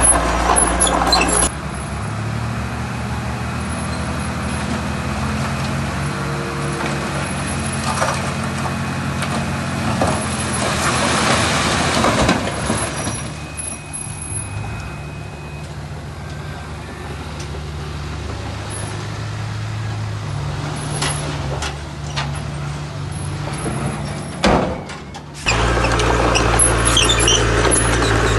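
Diesel engines of heavy earthmoving machinery running steadily. The sound changes abruptly about a second and a half in and again near the end.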